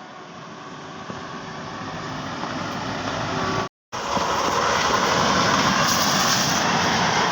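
Passing train: a steady rushing rumble of wheels on rail that grows louder over the first few seconds. It cuts out for a moment a little under four seconds in, then continues loud and steady.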